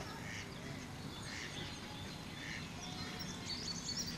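Small birds chirping repeatedly over steady low background noise.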